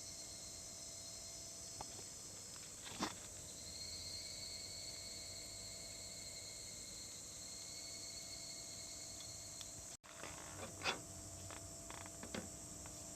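Insects trilling steadily in the background, with a sharp click about three seconds in. After a brief break near ten seconds come several more scattered clicks.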